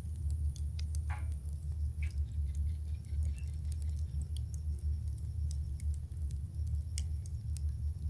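Campfire burning: scattered sharp crackles and pops from the wood over a steady low rumble, with a short falling whistle about a second in.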